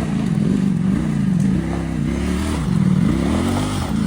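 Ducati Panigale V4's V4 engine revving unevenly, its pitch rising and falling over and over as the throttle is worked.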